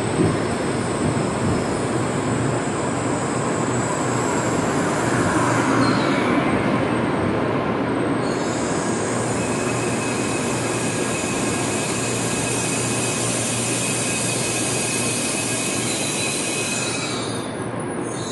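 N700-series Tokaido Shinkansen train moving slowly along the platform: a steady rushing running noise with thin high-pitched whines over it that shift in pitch about halfway through.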